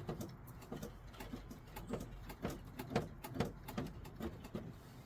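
Light, irregular clicks and creaks, a few a second, from the accelerator pedal of a 1963 Jeep Gladiator being pumped to prime the carburettor before a cold start.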